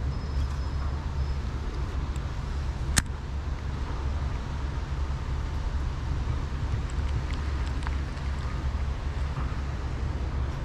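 Steady low outdoor rumble of background noise, with a single sharp click about three seconds in.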